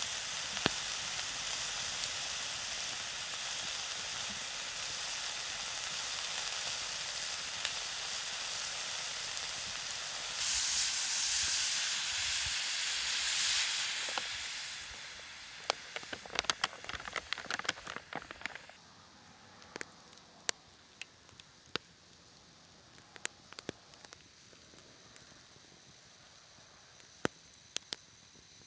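Food sizzling in a hot pan over a campfire. The sizzle swells louder for a few seconds about ten seconds in, then dies away. Afterwards only scattered small clicks and crackles remain.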